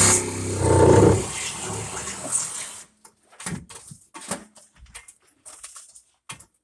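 A power tool cutting the old exhaust stops, gives one more short burst about a second in, then winds down and fades out over the next two seconds. Scattered light knocks and clunks follow.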